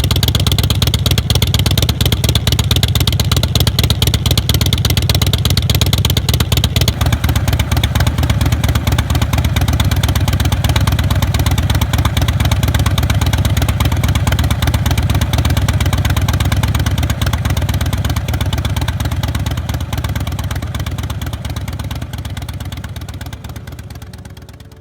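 Motorcycle's V-twin engine running at a steady idle, fading out over the last few seconds.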